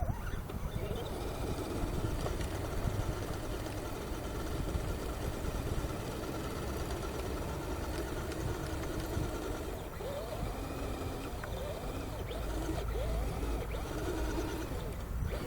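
RC rock crawler's brushed electric motor and gear drivetrain whining as it drives, the pitch rising and falling several times in the second half as the throttle is worked.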